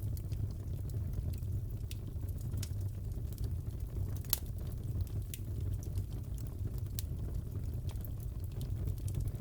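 Crackling fireplace: a steady low rumble of burning wood with scattered sharp pops and snaps, one louder pop about four seconds in.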